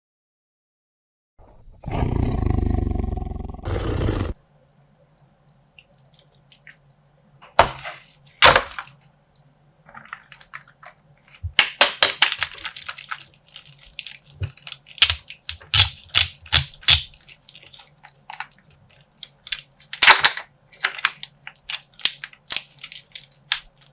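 A loud two-second burst of sound about two seconds in, then a plastic slime bag being handled, popped and torn open: irregular sharp crackles and crinkles of thin plastic, in clusters, over a faint steady hum.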